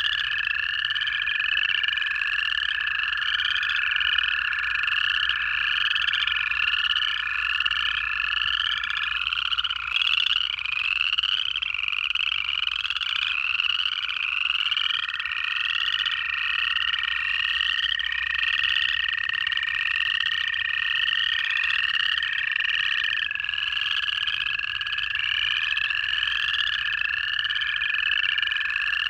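Dense pond chorus of upland chorus frogs' rising trills and spring peepers' high peeps, calling without pause. Through it run long, steady trills of American toads: one ends about a third of the way in, and another starts about halfway and carries on to the end.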